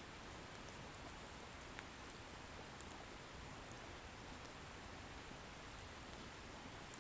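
Wood bonfire burning: a faint steady hiss with sparse small crackles and pops from the burning firewood, one a little clearer about two seconds in.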